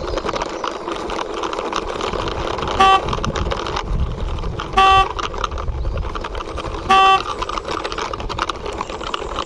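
Toy motorbike's wheels rolling as it is pushed by hand across a surface: a steady grinding rustle, with three short horn toots about two seconds apart.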